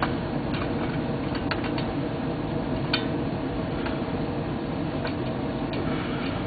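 Scattered light clicks and taps of metal engine parts being handled, about eight in all, over a steady background hum.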